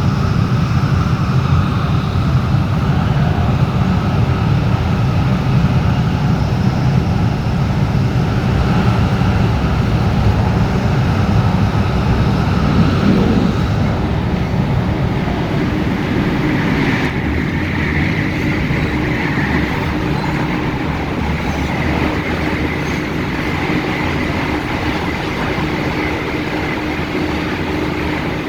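MTR Tung Chung line K-stock train running at speed between stations, heard from on board: a steady rumble of wheels and running gear. About halfway through, a steady hum comes in alongside the rumble.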